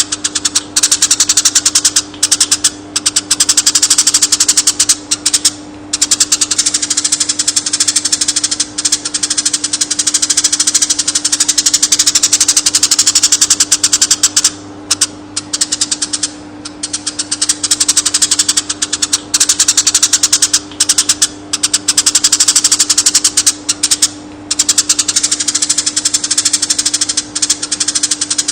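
Konin bird's high-pitched, rapid rattling chatter, running almost without pause and broken by a few short gaps, over a steady low hum.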